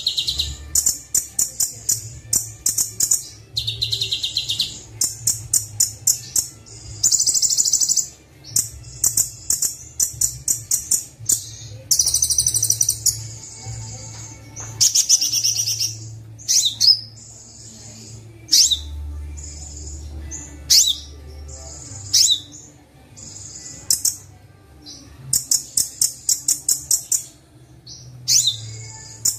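Kolibri Wulung sunbird song from a bird-training track: many very fast, high trills and sharp chirps in quick bursts, separated by short pauses, over a faint low hum.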